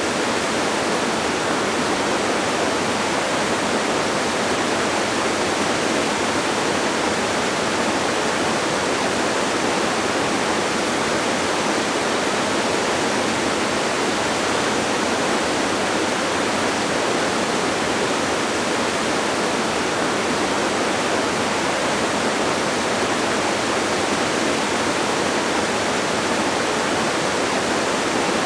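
Distant waterfall rushing steadily: an even, unchanging hiss with almost no deep rumble.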